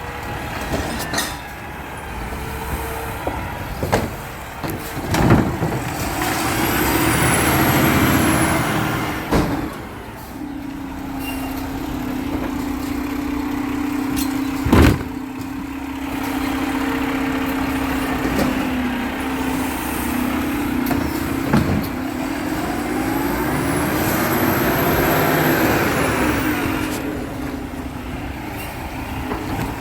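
Garbage truck at work: its engine runs under a steady mechanical whine that holds for several seconds, with two long hissing swells and a few sharp metallic clanks.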